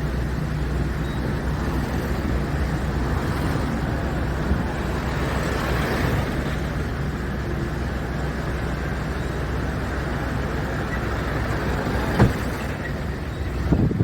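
Steady motor-vehicle noise: engine and road rumble, with a sharp knock about twelve seconds in and another near the end.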